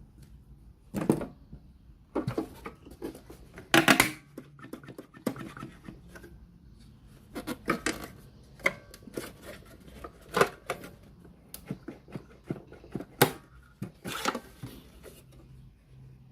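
Irregular clicks, taps and clatter of hands handling tools and parts of a radio cassette player during repair, about a dozen sharp knocks spread unevenly, the loudest about four seconds in, over a faint low hum.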